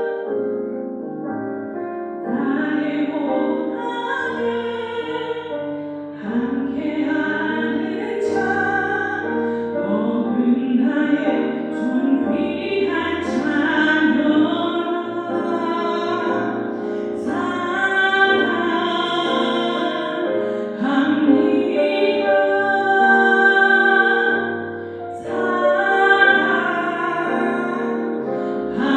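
Music: a voice singing slow, long-held notes with vibrato in an operatic style, over an instrumental accompaniment.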